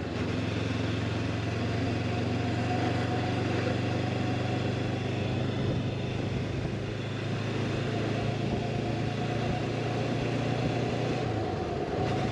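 Honda motorcycle engine running at a steady pitch while riding, with a slight change in pitch about eleven seconds in.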